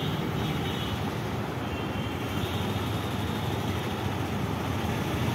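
Steady road noise from a moving motorcycle, heard from the rider's position: engine running at an even speed under a constant rush of wind and tyre noise.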